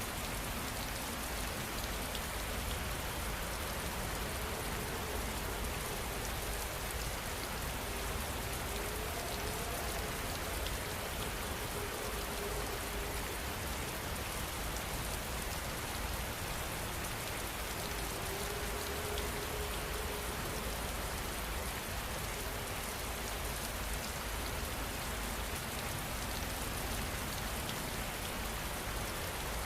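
Steady rain falling, an even, unbroken hiss of many drops on surfaces.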